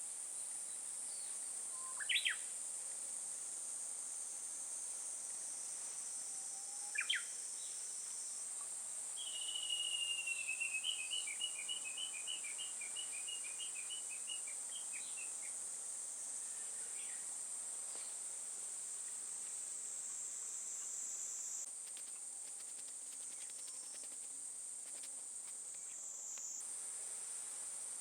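Outdoor ambience of insects chirring in a steady high-pitched drone. Birds call over it: two short sharp calls a few seconds apart, then a rapid trill of about six seconds that falls slightly in pitch.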